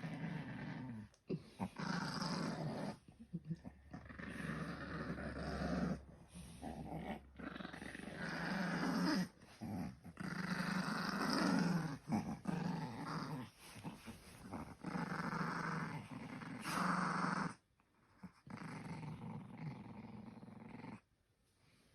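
A dog growling in repeated rough bouts of one to three seconds, with short pauses between them.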